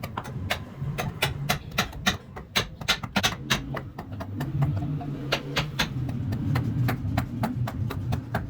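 Rapid, regular striking, about four sharp knocks a second, over a low steady hum.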